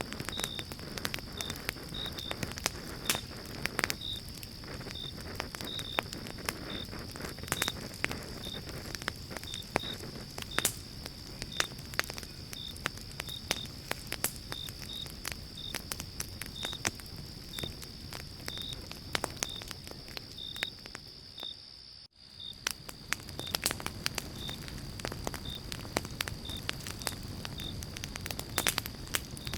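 Pine-log campfire crackling and popping, with a steady low rumble of flames under the sharp pops. A high chirping repeats about every half second throughout, and the sound dips out for a moment about two-thirds of the way through.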